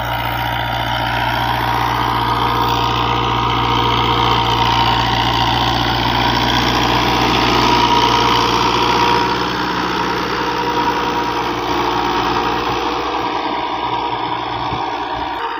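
New Holland Dabung 85 hp tractor's diesel engine running steadily at idle, growing slightly louder toward the middle and easing off again.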